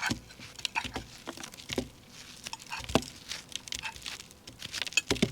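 Scattered light clicks and knocks with some rustling as food and tableware are handled; the sharpest knocks come about two, three and five seconds in.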